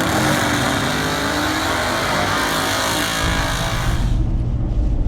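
A car engine accelerating hard under a loud hiss. About four seconds in, the sound cuts abruptly to a steady low rumble.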